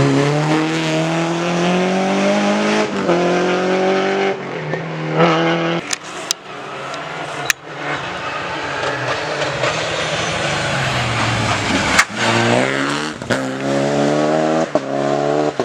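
Rally car engine revving hard and accelerating through the gears, its pitch climbing and breaking briefly at each upshift. In the middle comes a rougher stretch of engine and tyre noise with a few sharp cracks, then a car accelerates up through the gears again near the end.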